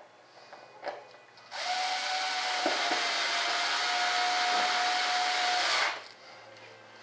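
A small handheld electric motor tool runs steadily for about four seconds, a rushing hiss over a steady whine, then stops.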